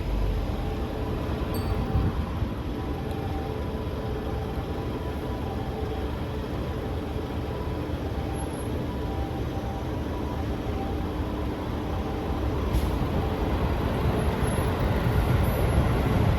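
Steady low rumble of vehicle traffic with faint engine tones, growing louder over the last few seconds as something nears.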